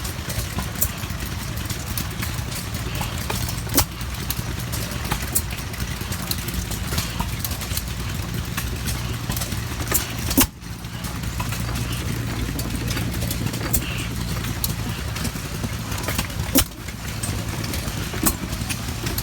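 2 1/2 HP Gade single-cylinder hit-and-miss engine running over a steady low rumble. Four sharp reports stand out, several seconds apart, with fainter ticks between them.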